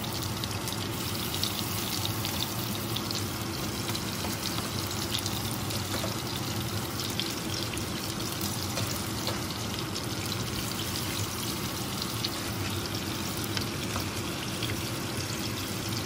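Raw pork-and-beef meatballs frying in hot olive oil in a frying pan: a steady sizzle dotted with fine crackles and pops as the oil spits around the meat.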